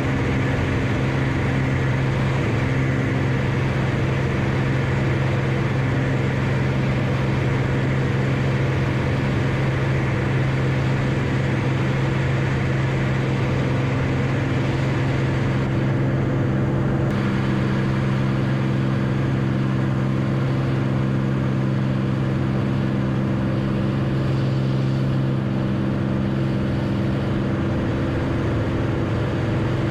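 Light aircraft piston engine running at steady power, a constant drone.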